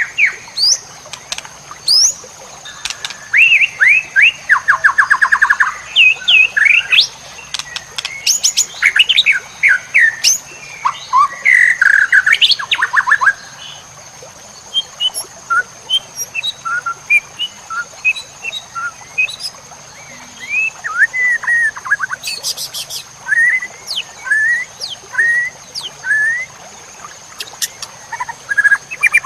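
White-rumped shama (murai batu) singing a long, varied song of loud whistles, sweeping notes and fast rattling trills, with short gaps between phrases. The phrases come thick and fast in the first half, then break into spaced short notes. A faint steady high whine runs underneath.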